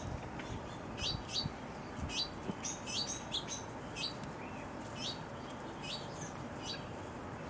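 Small birds chirping: short, sharp, downward-sliding chirps repeated about once or twice a second.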